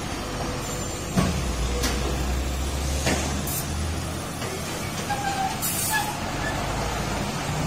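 Heavy truck's engine running low and steady under load, with several short hisses of its air brakes.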